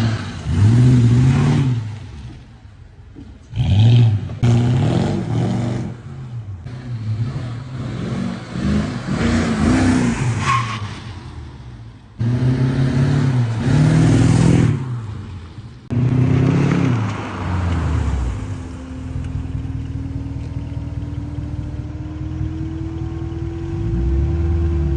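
Mercedes M113 V8 engine, swapped into a W124 E 500, revved hard in about five bursts with the pitch climbing and falling each time, then settling to a steady idle over the last several seconds.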